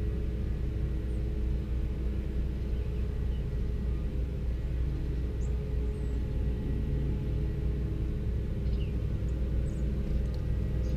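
A steady low rumble with a faint hum runs throughout. Over it, small birds give a few faint, short, high chirps, more of them in the second half.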